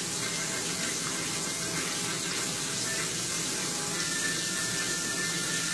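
Breaded ground-beef patty frying in hot oil in a skillet: a steady sizzle.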